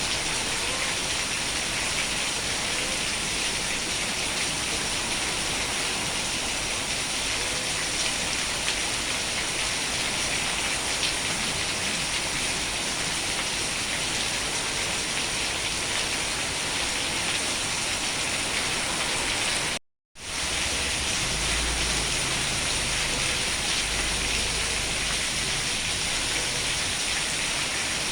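Steady rain falling, an even hiss of dense drops. About two-thirds of the way through the sound cuts out completely for about half a second, then the rain comes back with a low rumble under it.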